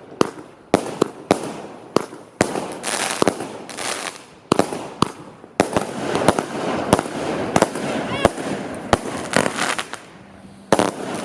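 Fireworks going off: a rapid, irregular string of sharp bangs with crackling between them. A short lull near the end gives way to one more loud bang.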